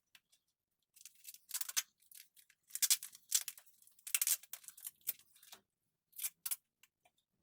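Duct tape being pulled off the roll and wrapped tight around a plastic cold pack bundle: a series of short, irregular ripping bursts with brief pauses between them.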